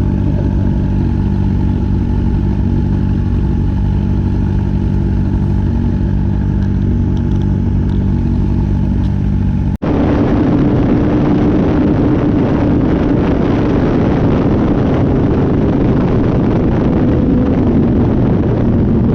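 Motorcycle engine idling steadily. After an abrupt cut about ten seconds in, it gives way to a motorcycle engine running under way, buried in loud rushing noise with a steady drone.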